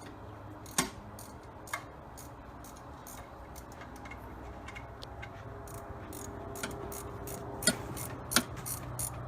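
Scattered light metallic clicks and taps of hand tools and bolts during work on an engine-to-transmission joint. A few sharper knocks come in the last two seconds, over a low steady hum.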